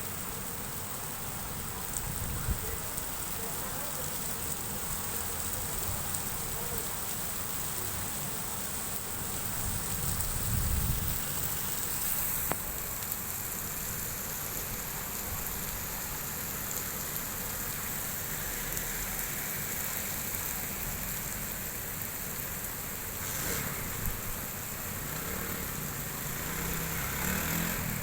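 Heavy rain falling steadily, an even hiss of rain on surfaces, with a low rumble swelling about ten seconds in.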